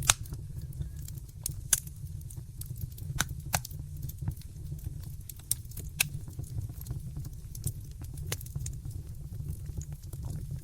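Wood fire crackling in a fireplace: irregular sharp pops and snaps, the loudest right at the start, over a steady low rumble.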